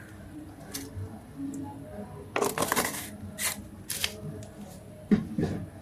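Kitchen handling sounds: scattered light clicks and knocks of utensils and cookware, with a short rustling, clattering burst about two and a half seconds in.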